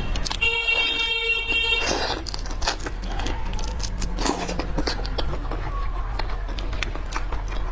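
Close-miked eating of seafood: a run of cracking shell, clicks and chewing noises over a steady low hum. From about half a second in, a steady pitched tone sounds for about a second and a half.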